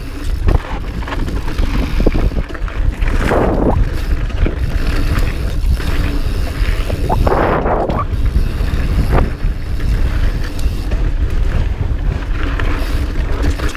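Wind buffeting an uncovered GoPro microphone during a mountain bike ride: a constant low rumble, with louder rushing swells about three and a half seconds and seven and a half seconds in.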